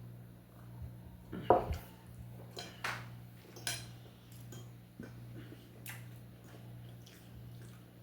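Spoon or fork clinking and scraping against a plate while eating: a handful of scattered short clinks, the loudest about one and a half seconds in, over a steady low hum.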